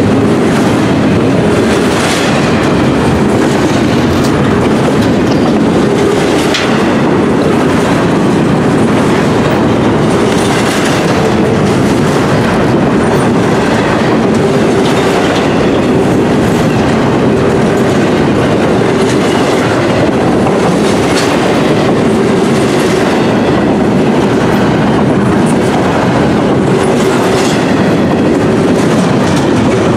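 Double-stack intermodal well cars of a freight train rolling past close by: a loud, steady rumble of steel wheels on rail, with scattered clacks as the wheel sets pass.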